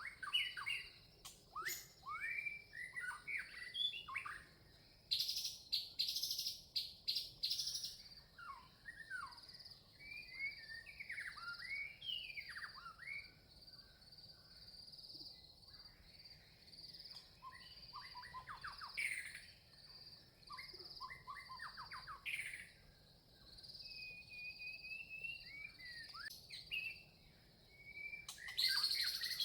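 Red-vented bulbuls chirping: many short, sweeping calls, with a louder run of rapid stuttering calls about five seconds in. A steady, high, pulsing trill runs underneath.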